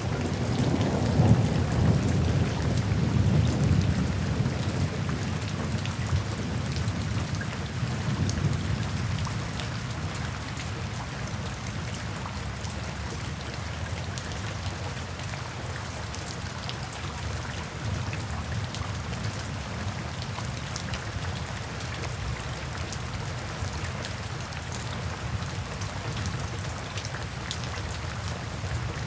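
Steady rain falling, with scattered drop ticks, and a low rumble of thunder in the first few seconds that fades away.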